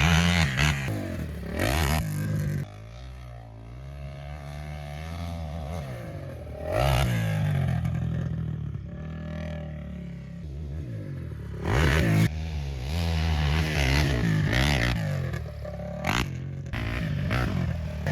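KTM 450 SX quad's single-cylinder four-stroke engine revving up and down as it is ridden around a track, with several loud bursts of throttle and quieter, lower stretches between them.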